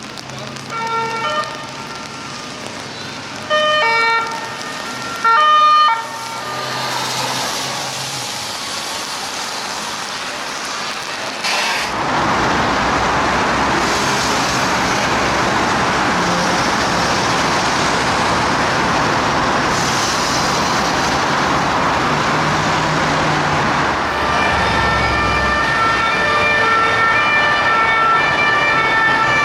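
French police two-tone siren, with police vehicles and street traffic running underneath. The siren comes in a few short blasts in the first six seconds, gives way to mostly traffic noise in the middle, and sounds steadily again over the last five seconds.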